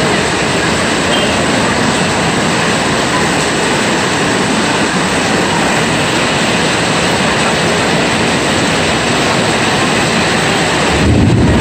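Heavy rain falling steadily, a loud even hiss. A low rumble comes in near the end.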